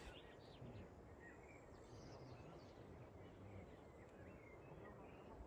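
Quiet outdoor ambience: faint, scattered bird chirps over a low, steady background rumble.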